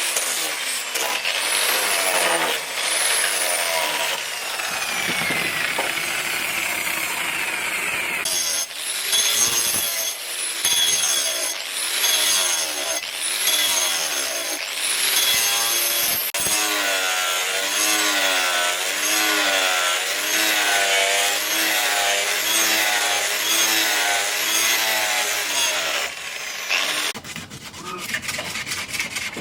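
Tool working wood in rhythmic rubbing strokes, about one a second, each stroke rising and falling in pitch. The sound eases off near the end.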